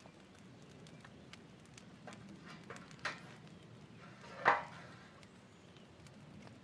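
Campfire cooking sounds: faint crackling with two sharper knocks of a utensil against cookware, about three seconds in and, louder, about four and a half seconds in.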